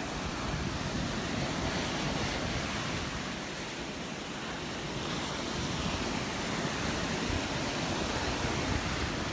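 Surf breaking and washing up on the beach, a steady rush of waves that swells slightly in the second half.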